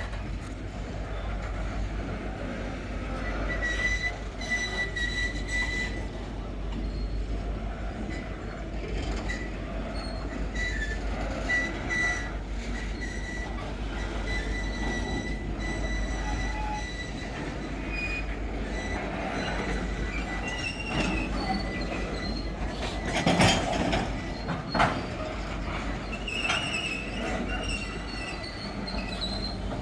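Freight train wagons rolling past on metre-gauge track, a steady rumble with the wheels squealing in thin high tones off and on. Two sharp metallic clanks stand out about three quarters of the way through.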